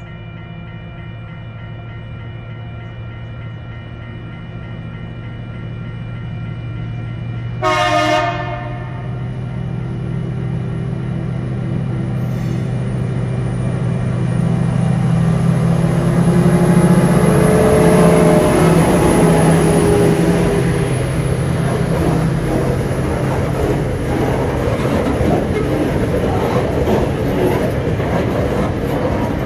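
Loaded cement train hauled by TasRail diesel-electric locomotives TR09 and 2002 approaching and passing. The engines' low drone grows steadily louder, with a short horn blast about a quarter of the way in, sounded for the road crossing. The locomotives go by at their loudest, then the loaded cement hopper wagons roll past with a steady clatter of wheels on rail.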